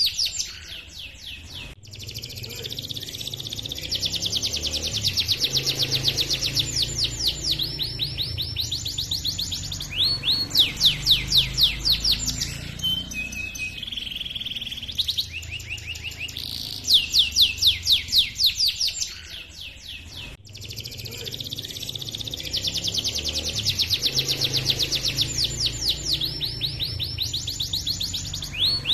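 Male domestic canary singing a long, rolling song of rapid repeated high trills, phrase after phrase with only brief pauses. The same run of phrases comes round again about eighteen seconds in.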